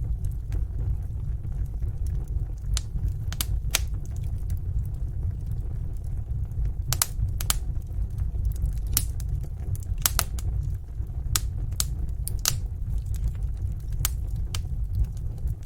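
Wood fire crackling in a fireplace: irregular sharp snaps and pops, a few of them close together, over a steady low rumble.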